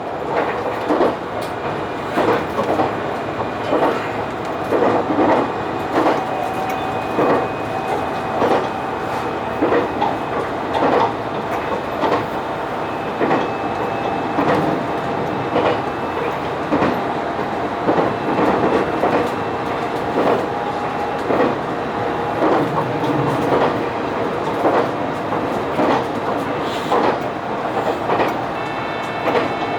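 Diesel train running on jointed track, its wheels clicking over the rail joints in regular pairs about once a second over a steady running rumble and hum.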